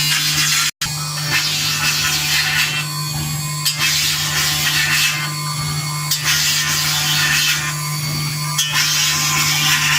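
CNC engraving machine cutting a silver plate: a steady spindle hum under a high scraping hiss that comes and goes in stretches of about a second as the cutter works across the metal. The sound cuts out for an instant under a second in.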